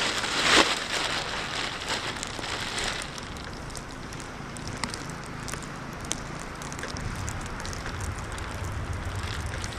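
Plastic trash bag rustling and crackling in the wind, with scattered sharp ticks and a louder rustle about half a second in. In the second half, wind rumbles on the microphone.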